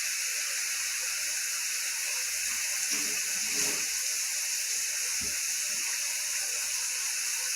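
Bacon sizzling in a hot wok, a steady, even hiss as it renders its own fat.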